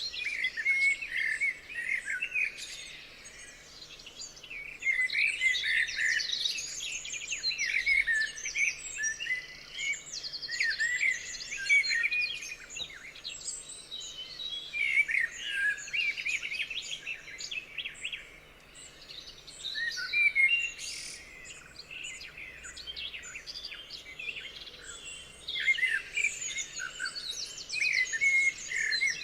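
Several songbirds singing and chirping at once, a busy chorus of quick trills and chirps that comes and goes in bouts.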